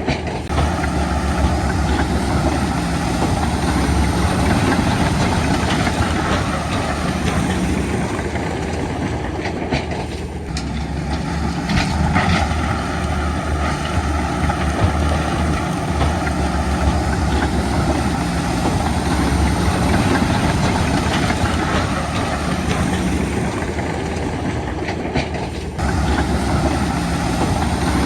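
Heavy diesel earthmoving machinery running steadily, the low engine note of a bulldozer or dump truck at work. The sound shifts abruptly about ten seconds in and again near the end.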